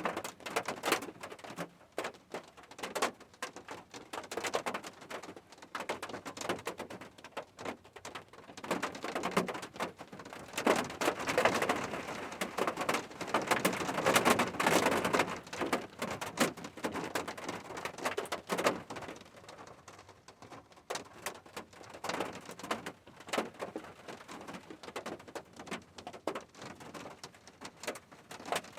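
Rain falling, with dense, irregular drops and splashes striking a hard surface; it swells louder for a few seconds midway through.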